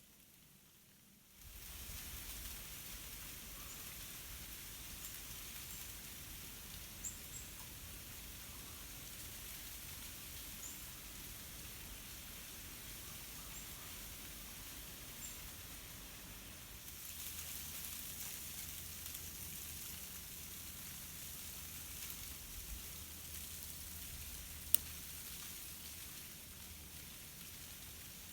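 Ice-coated tree branches crackling and tinkling as a breeze sways them, a steady fine crackle like sizzling, with scattered faint ticks and one sharp snap near the end. The ice from freezing rain is cracking as the branches move.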